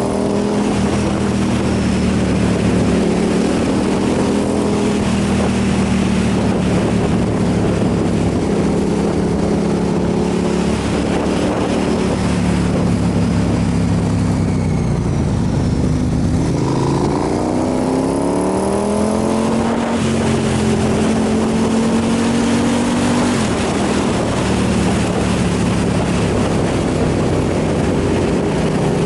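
Motorcycle engine running at a steady cruise under heavy wind rush. About halfway through the engine note drops, then climbs quickly and settles back to a steady pitch: the rider slowing and accelerating again.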